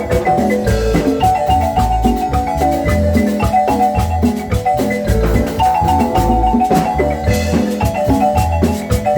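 Marimba music: rapid runs of mallet-struck notes over a steady low bass.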